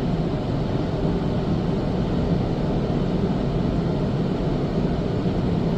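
Car wash air dryers blowing steadily: the fan motors of a WashTec SoftCare 2 Pro touchless wash's roof and side dryers, a constant rushing of air with a low hum.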